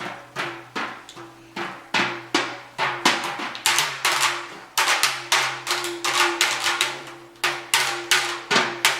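A child beating out irregular percussive strikes on a hard object, about two to three hits a second, each ringing briefly, with a faint steady hum underneath.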